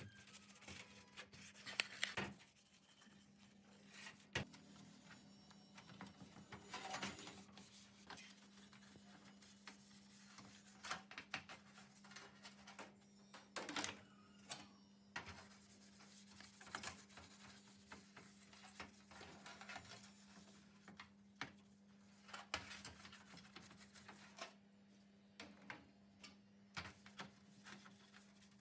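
Quiet hand work on old ceiling-fan parts: scattered clicks, taps and short rubbing scrapes at irregular intervals, over a faint steady hum.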